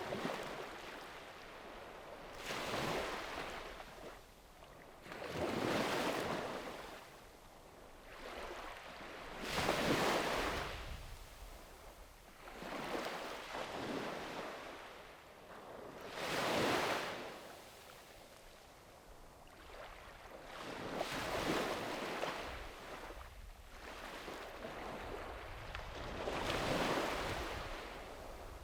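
Sea waves breaking and washing up a beach, one surge every three to five seconds, each swelling to a hiss and then fading.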